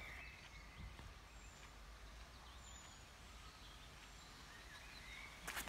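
Faint birdsong, a few short chirps over a low steady background rumble, with one short sharp knock near the end.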